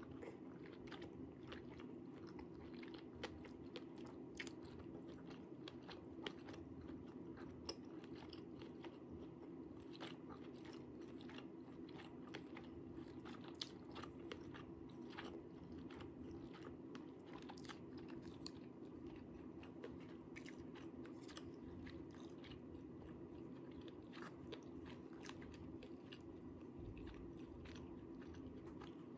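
A person chewing spicy tteokbokki close to the microphone, faint, with many small sharp mouth clicks and bites scattered throughout over a steady low hum.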